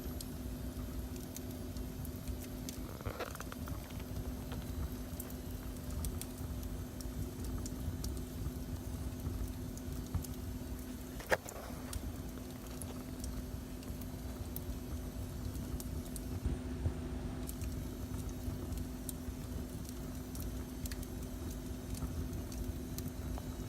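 Wood fire crackling, with sparse small pops and one sharper pop about eleven seconds in, over a steady low rumble and hum.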